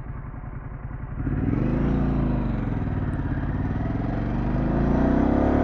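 2024 Harley-Davidson Pan America Special's V-twin engine under way: quiet at first, then about a second in it opens up and climbs in pitch, drops back briefly at a gear change, and rises again as the bike accelerates.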